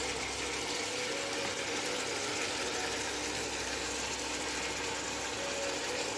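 Chili chicken with sauces sizzling steadily in a steel kadai on an induction cooktop, a fine, even crackle.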